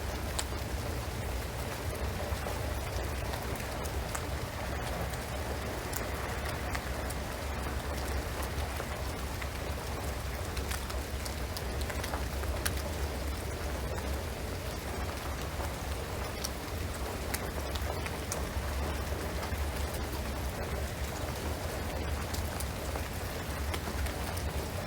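Steady rain falling on a shingled roof and pine trees: an even hiss with scattered sharp drip ticks and a low rumble underneath.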